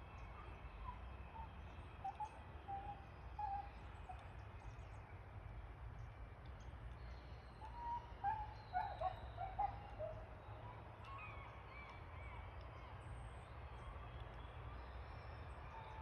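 Wild birds calling outdoors: scattered short harsh calls, with a busier burst of calls near the middle and a few higher chirps after it, over a steady low rumble.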